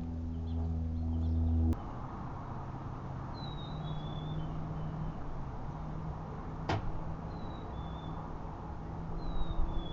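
A steady low hum cuts off abruptly with a click about two seconds in. It leaves outdoor background noise, over which a small bird gives a few faint, short, falling chirps, with a single sharp click midway.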